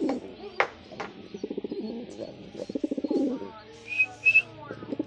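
Satin pigeons cooing in rolling, pulsed coos, phrase after phrase. Two sharp clicks come about half a second and a second in, and two short high chirps about four seconds in.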